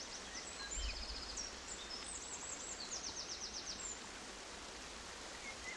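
Small aviary birds chirping, with several high-pitched trills and rapid runs of repeated notes over a steady background hiss.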